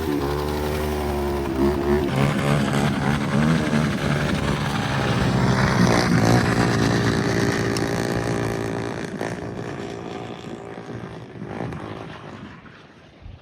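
Honda 400EX quad's single-cylinder four-stroke engine revving up and down, growing louder to about halfway, then fading away over the last few seconds as the quad moves off.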